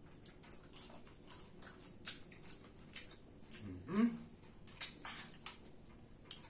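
Close-up chewing and mouth clicks of people eating French fries, with many short ticks and smacks throughout. About four seconds in there is a short rising hummed "mm".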